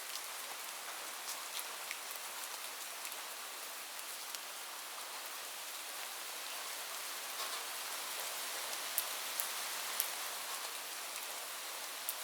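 Steady rain falling on a roof, an even hiss with scattered sharper drop ticks, a little heavier for a few seconds past the middle.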